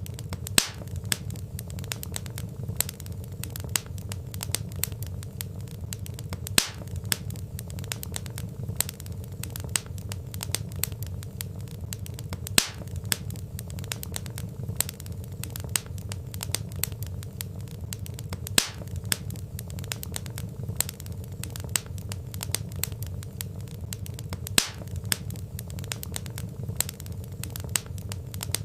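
Wood fire crackling in a fireplace: a steady low rumble of burning logs with dense small crackles and a sharper, louder pop about every six seconds.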